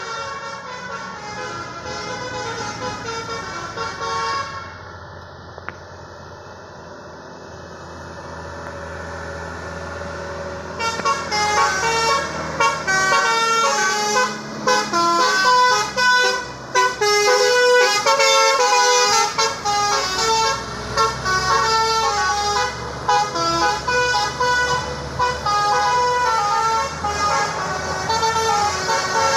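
Truck's multi-tone air horn, a 'telolet' horn, playing a quick stepping melody over the engine noise. It drops away for several seconds, leaving a low engine rumble, then comes back louder about a third of the way in and keeps playing note after note.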